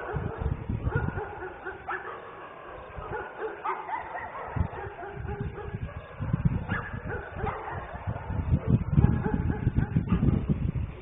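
Dogs yelping and whining in short, repeated pitched calls, over a heavy low rumbling noise that grows louder in the second half.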